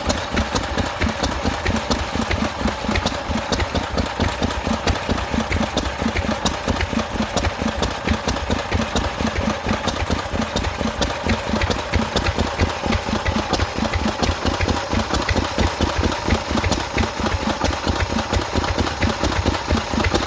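Lister stationary engine running steadily at an even idle, with a regular rhythmic beat.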